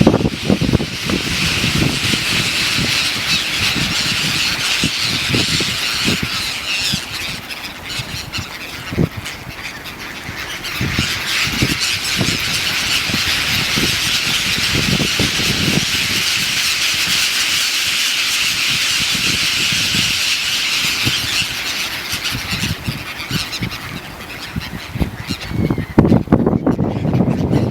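A large flock of birds calling, many overlapping high calls blending into a continuous din, with gusts of wind on the microphone.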